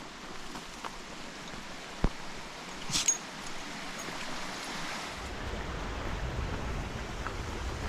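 Mountain creek running steadily, with a sharp tap about two seconds in and a brief crackle about a second later. From about five seconds in a low rumble builds under it.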